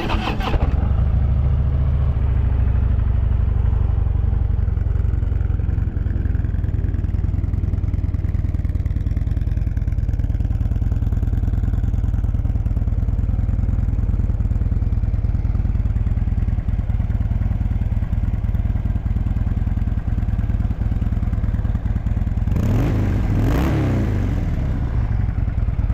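Harley-Davidson Dyna Low Rider's 103-cubic-inch fuel-injected Twin Cam V-twin idling steadily. About 23 s in, a single throttle blip raises the revs and lets them fall back.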